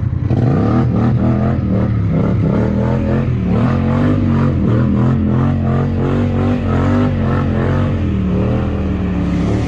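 Quad bike engine revving hard, its pitch rising and falling again and again without settling.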